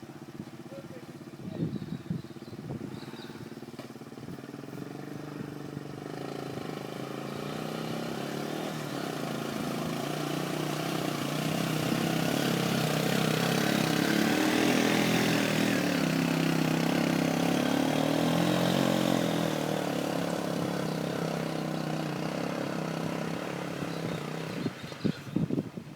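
A motor vehicle's engine running at a steady pace, growing louder over several seconds as it approaches, loudest about midway, then fading as it moves away, with a hiss that rises and falls along with it.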